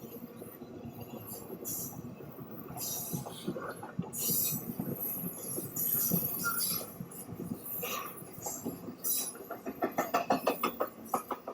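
Freight train rolling past, its wheels and cars clanking and clicking over the track, with a fast run of evenly spaced clicks near the end.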